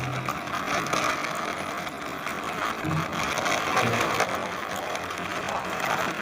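A plastic toy police vehicle rolling along, its wheels and gearing making a steady, fast ratcheting rattle.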